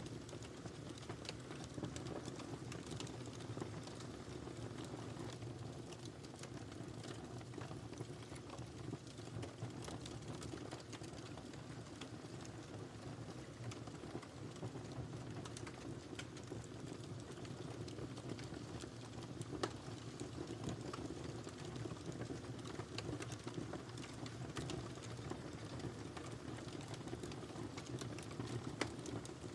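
Wood fire burning steadily, with a low rumble of flames and dense, irregular crackling and popping of the firewood.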